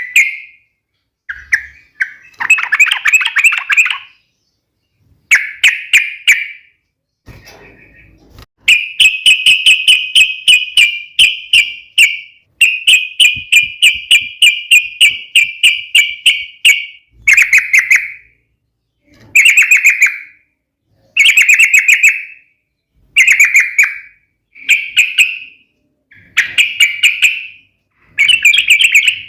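Trucuk (yellow-vented bulbul) singing its fast, rolling 'ropel' fighting song in loud, bubbly phrases, with a long unbroken run of rapid repeated notes midway through.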